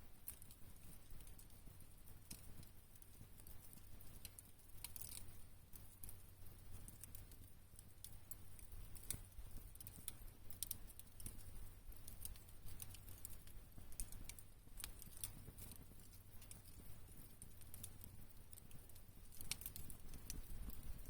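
Wood campfire crackling faintly, with scattered irregular pops and ticks over a low steady rumble.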